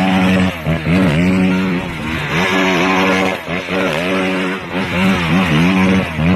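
Motocross bike engine running at high revs, its pitch dropping briefly and climbing back again many times as the throttle is chopped and reopened.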